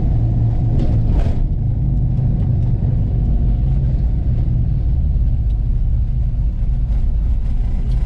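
Cammed LS V8 in a 1985 Chevy K10 4x4, with headers and Flowmaster dual exhaust, running steadily while the truck is driven, heard from inside the cab. A few light knocks come through, the clearest about a second in.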